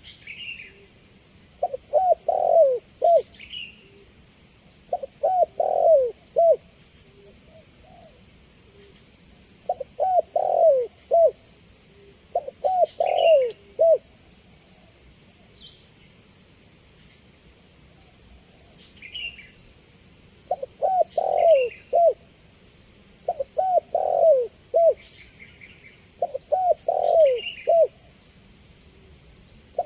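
Spotted dove (tekukur) cooing its repeated multi-note call, about seven phrases of roughly a second and a half each, with a long pause mid-way. Faint higher chirps of small birds and a steady high hiss sit underneath.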